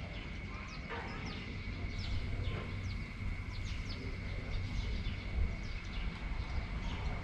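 Heavy rain and wind, the wind giving a low rumble, with many short falling chirps from birds and a steady high-pitched tone throughout.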